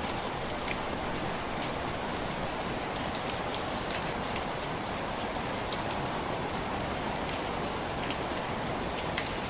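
Steady rain tapping on window glass: an even hiss of rainfall with many separate, irregular drop ticks.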